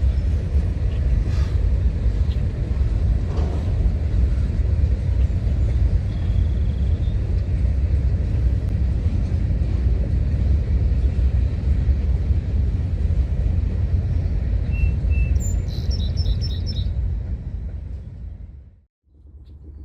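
Steady low rumble of a passing freight train, fading away near the end, with a few bird chirps shortly before it fades.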